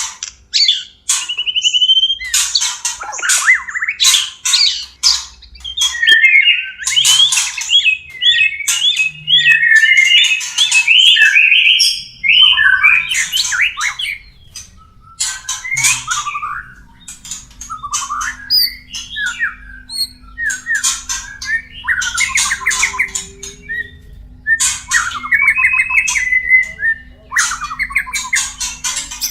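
White-rumped shamas giving mating calls: rapid harsh chattering and squawking notes mixed with warbled phrases and sharp clicks, in dense bursts with short gaps.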